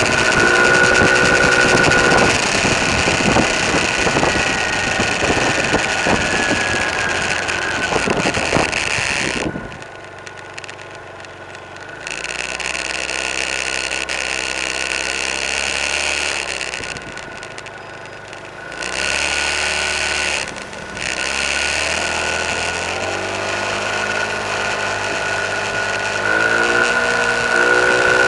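Engine and road noise of a moving car heard from inside the cabin, with a steady engine hum. The noise is loudest for the first several seconds, drops sharply twice, and the engine pitch rises near the end as it speeds up.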